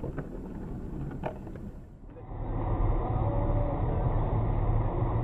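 Car engine and road rumble picked up by a dash cam, with a few small clicks at first. About two seconds in the sound switches to a louder, duller, steady low rumble.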